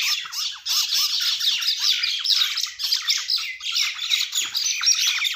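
Several mynas squawking and chattering at once, a rapid unbroken stream of short harsh calls, as the birds fight among themselves.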